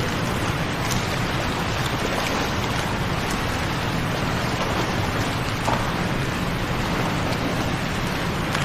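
Waterfall: a steady rushing of falling water, with a few faint splashing ticks.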